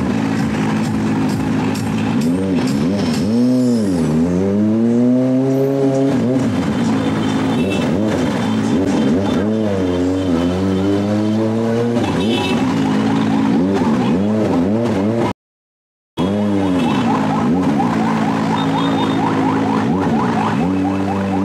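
Kawasaki ZX-25R's 250 cc inline-four engine running at low speed and revved over and over, its pitch dipping and then climbing with each throttle blip, with quick rising revs near the end. The sound drops out for under a second about two-thirds of the way through.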